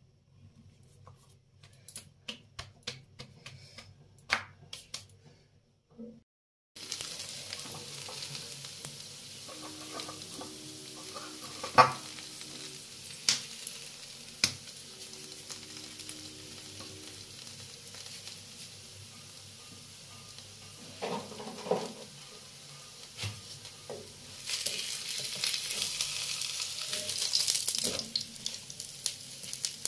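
A few light taps, then an aloo paratha frying on a hot flat nonstick pan with a steady sizzle. A wooden spatula knocks on the pan a few times, and the sizzle grows louder near the end as the spatula works the paratha.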